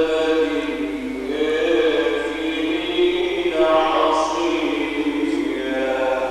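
A male Quran reciter chanting in the melodic mujawwad style, drawing out long held notes that slowly bend up and down in pitch.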